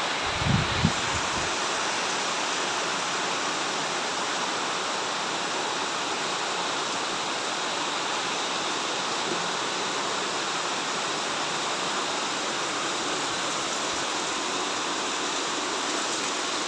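Steady rush of heavy rain, with two brief low thumps about half a second and just under a second in.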